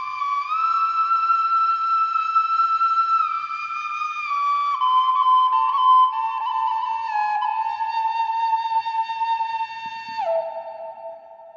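Bansi, a Minangkabau bamboo flute, playing a slow solo melody of long held notes. Near the end the line drops to a lower note and fades.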